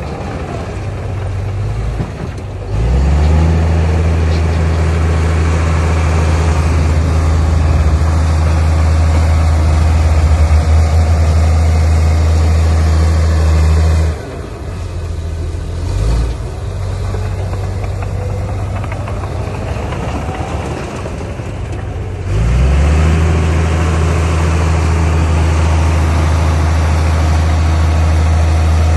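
Heavy diesel engine of earthmoving machinery, revving up and running under load, easing back to a lower note about halfway through, then revving up again for the last stretch.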